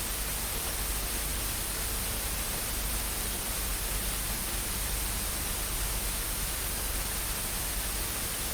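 Steady static hiss with no change or events.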